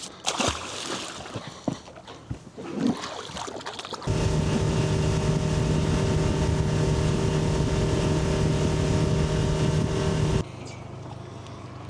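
A few knocks and handling clicks, then a boat motor running steadily at speed for about six seconds, starting and stopping abruptly.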